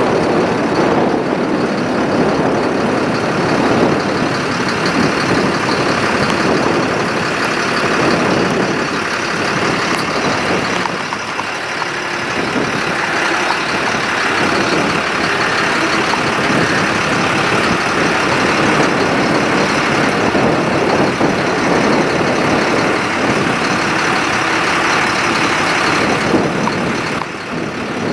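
Ford F-750 forestry truck's engine running steadily with its PTO hydraulics engaged, while the boom, outrigger and dump-box controls are worked.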